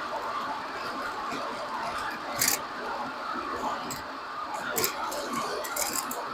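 Road and tyre noise from a 30-series Toyota Prius on the move, picked up near the left rear wheel, with a few sharp clicks and rattles now and then. The owner wonders whether this is the kind of rattle typical of an early-failing hub bearing.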